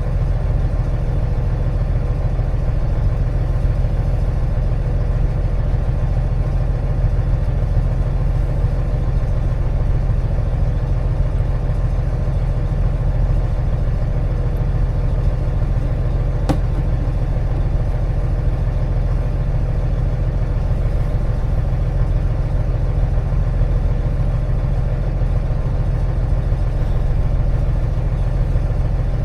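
Volvo D13 inline-six diesel in a Volvo VNL 670 truck idling with a steady low rumble, with a single sharp click about halfway through.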